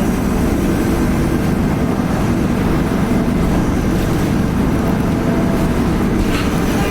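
Cummins ISL diesel engine and drivetrain of a 2010 Nova Bus LFS Articulated running steadily under way, heard from inside the cabin as a loud, even rumble. A thin steady turbo whine sits above it.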